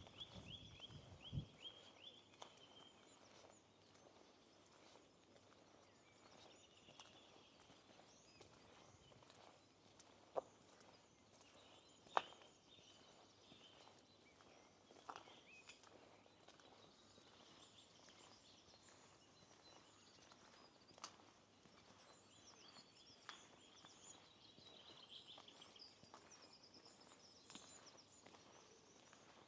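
Faint songbirds chirping and singing on and off, with a few isolated sharp clicks, the loudest about twelve seconds in.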